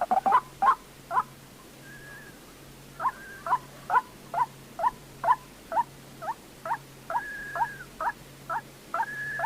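White-breasted waterhen calls on a bird-trapping lure recording: a run of short, falling call notes at about two a second, breaking off for a moment about a second in and resuming near three seconds. A few longer, higher held notes sound among them.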